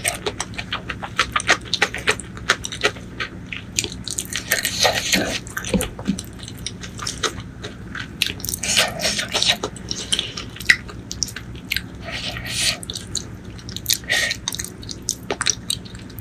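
Close-miked eating sounds: wet chewing and lip smacks of rice and curry eaten by hand, with many short sticky mouth clicks.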